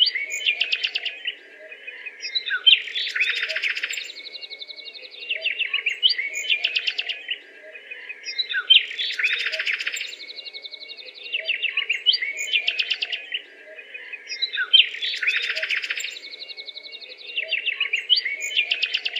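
Birds chirping and trilling, the same run of calls repeating about every six seconds.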